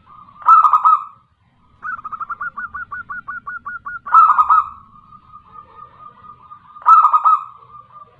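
Zebra dove (perkutut) cooing: loud, rapid phrases of short, bubbling notes, about six notes a second, repeating every few seconds. It is a female's call, used as a lure to make male doves answer.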